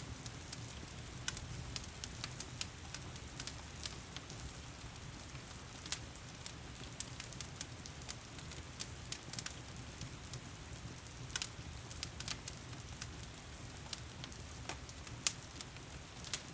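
Wood fire crackling with sharp irregular pops over a steady hiss of heavy rain.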